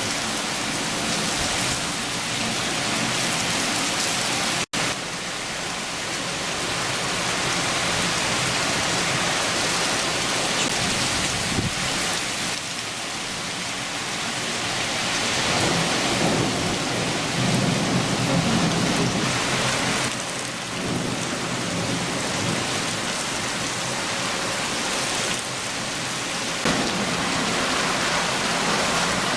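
Steady downpour of a summer rain shower, with a low rumble of thunder swelling about two-thirds of the way through. The sound drops out for an instant about five seconds in.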